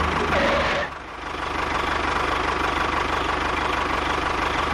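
An engine running with a steady, even knock, its sound dropping away sharply about a second in and then building back up.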